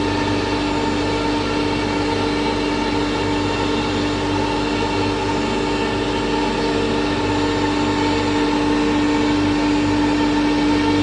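CNC router running steadily: a constant whine over steady machine noise.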